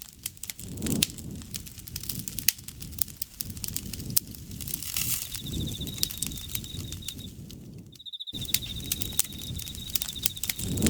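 Campfire crackling and popping over a soft low rumble of flames. From about halfway an insect trills steadily at a high pitch, broken only by a brief dropout a little past two-thirds of the way through.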